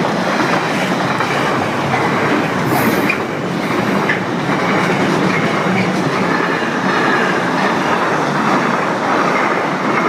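Container wagons of a Freightliner freight train rolling past at close range: a steady loud rumble and clatter of wheels on the rails, with a brief high squeal about three seconds in.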